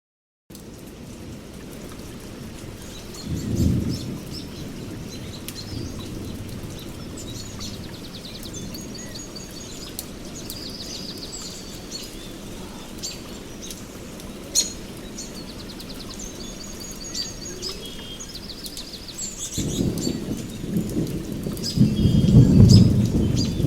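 Steady rain falling, with thunder rumbling low about three seconds in and again, longer and louder, over the last four seconds. Birds chirp and trill throughout. The rain starts abruptly after a brief silence.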